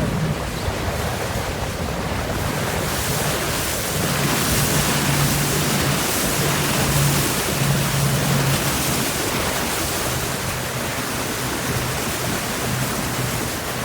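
Wind rushing over the microphone and water noise from a moving boat under way, with the low steady hum of the boat's motor coming and going underneath.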